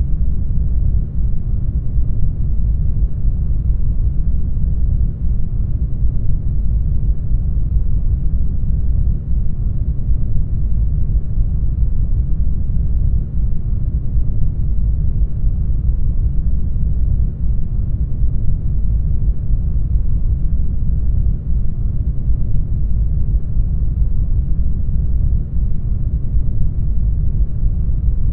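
Steady brown noise: a deep, even rumbling hiss, strongest in the bass and fading toward the treble, unchanging throughout.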